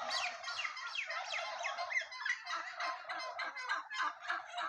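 Domestic turkeys gobbling, several birds calling over one another with many pitch-falling calls. From about two and a half seconds in, the calls run on as a fast, even series of about four a second.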